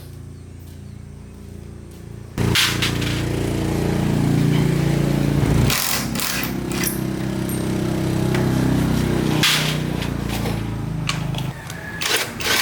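A motor running steadily, much louder from about two seconds in and dropping back near the end, with a few sharp knocks over it.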